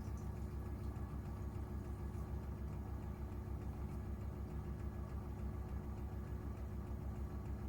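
Gorenje UseLogic 65165 washing machine running mid-cycle: a steady low motor hum with a fast, even pulse.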